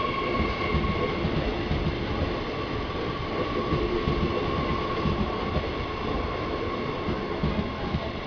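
Electric suburban train moving along the platform: a steady rumble of wheels and running gear with a thin high whine over it, easing slightly towards the end.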